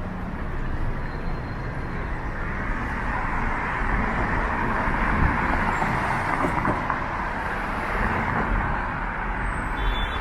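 Downtown street traffic: a steady rumble of cars, with a vehicle passing that swells the noise through the middle and then eases off.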